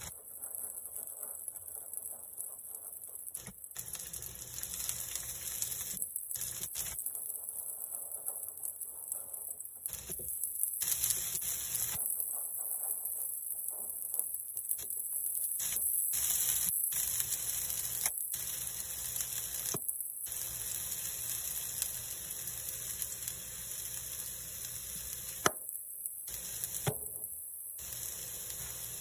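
Broccoli florets sizzling in hot oil on an electric griddle: a steady hissing crackle, with a couple of sharp clicks near the end.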